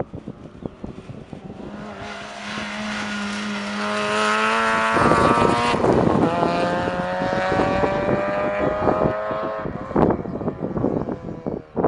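Rally car engine at full throttle, its note climbing steadily as the car accelerates toward the listener, louder as it closes. The sound changes abruptly about five seconds in to a second engine climbing the same way, and again near ten seconds.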